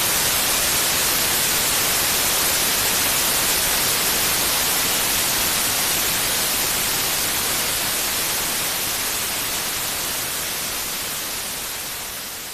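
Steady white noise, a hiss strongest in the high end, fading out gradually over the last few seconds.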